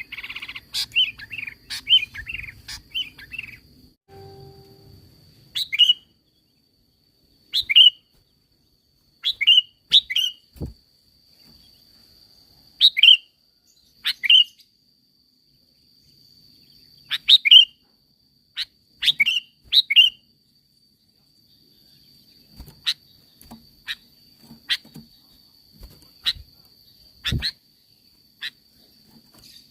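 Sooty-headed bulbul (kutilang) calling: a quick chattering run of notes for the first few seconds, then short, sharp, downward-slurred calls in ones, twos and threes every second or two. A faint steady high tone runs underneath.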